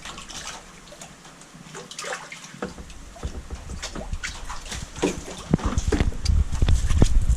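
Water splashing and sloshing in a tub as a koi is caught to be moved, in short irregular splashes. A low rumble builds in the last couple of seconds.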